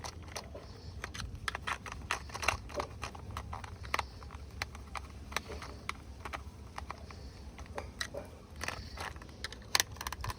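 Irregular small clicks, taps and scrapes of plastic toy car parts being handled and fitted together, over a low steady hum.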